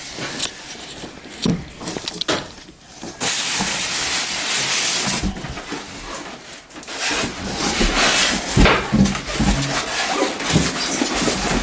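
Packaging rubbing and rustling, with scattered knocks and thumps, as a large sewing machine is handled out of its box. A loud, steady rustling hiss sets in about three seconds in.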